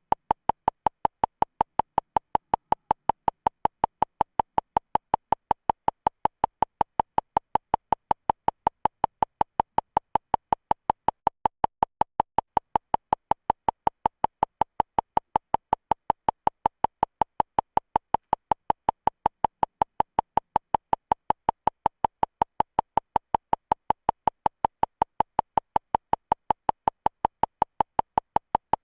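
Electronic beeping: a short high beep repeated evenly, about three times a second, with silence between beeps.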